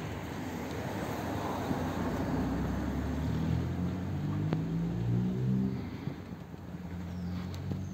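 Toyota Land Cruiser Prado engine running at idle: a steady low hum that swells a little in the middle and eases after about six seconds.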